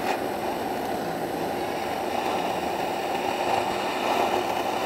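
Forced-exhaust draft inducer fan on a pellet-burning stove's flue running steadily, making an even rushing noise. It cuts off suddenly near the end.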